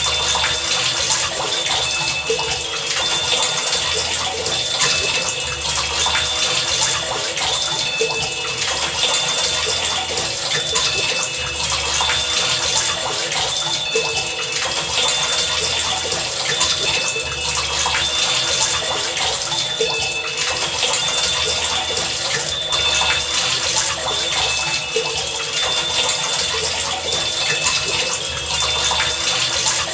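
Heavy rain falling as a dense, steady hiss. Short high tones and a low hum come and go every few seconds on top of it.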